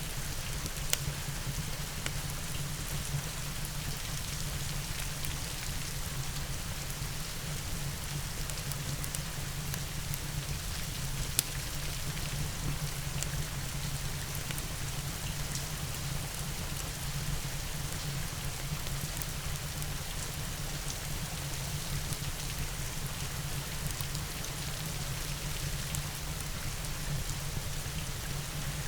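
Steady rain with a crackling wood fire, heard as a constant even hiss over a low rumble. Scattered sharp pops from the fire stand out, the loudest about eleven seconds in.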